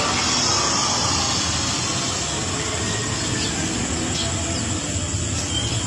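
Steady rushing hiss of water running or spraying for a bird's bath.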